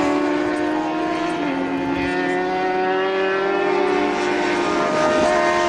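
Racing motorcycle engines running at high revs, several engine notes overlapping at once and shifting slightly in pitch, one dropping about a second and a half in.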